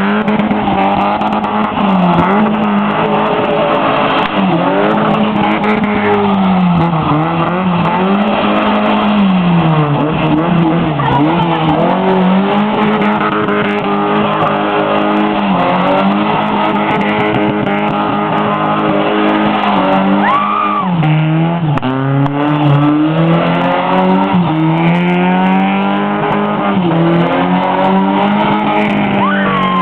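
Toyota Trueno's engine revving up and down over and over while the car drifts, its pitch rising and falling every second or two. The tires squeal briefly a couple of times, once about two-thirds of the way in and again near the end.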